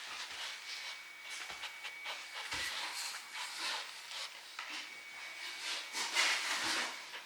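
Irregular soft rustling and rubbing noises with small clicks from an Akita puppy moving about.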